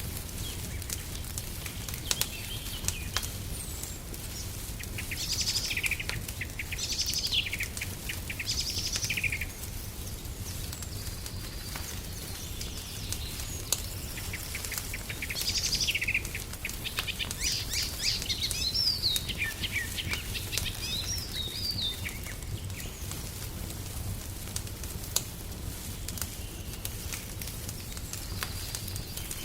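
Songbirds chirping in short, quick phrases, in two spells: one about five to nine seconds in and one from about fifteen to twenty-two seconds in. Under them runs the crackle of a wood fire, with occasional sharp pops and a steady low rumble.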